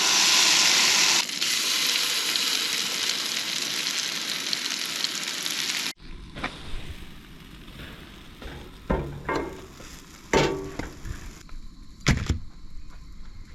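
Pancakes frying, a loud steady sizzle that cuts off suddenly about six seconds in. After that it is quieter, with a few short knocks and clinks.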